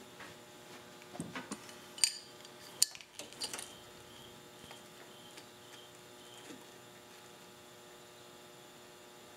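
A few sharp metallic clicks and clinks in the first few seconds as the fuel-line clamp is worked into place on a lawn mower carburetor, over a steady electrical hum.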